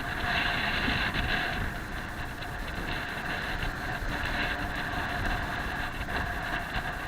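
An engine running steadily, with a few faint steady tones over an even noise.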